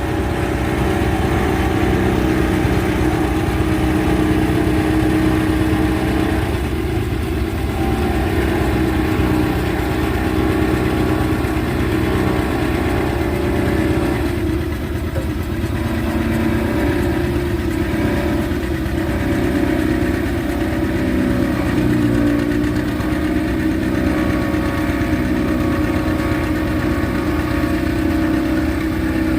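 John Deere R's two-cylinder diesel engine running steadily under load, driving a Gehl forage harvester that is chopping, with small shifts in engine pitch now and then.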